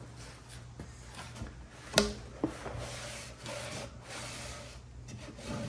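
Wet cotton rag rubbing over a small glued-up wooden box, wiping off glue squeeze-out, in several short strokes. A sharp knock comes about two seconds in, the loudest thing here, with a lighter knock just after.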